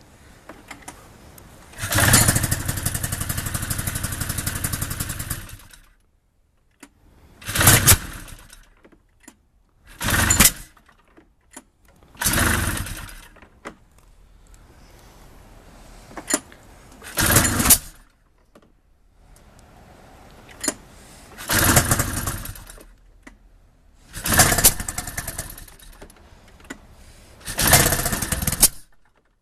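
Arctic Cat Powder Special 700 snowmobile's two-stroke engine being cranked over again and again without starting. There are about eight tries with pauses between them: the first lasts about four seconds, the rest about a second each.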